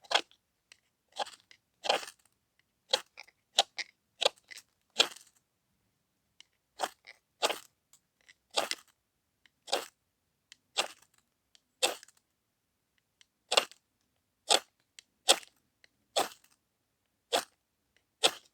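Ferro rod being struck with a knife again and again to throw sparks onto tinder, one short scraping strike about every second.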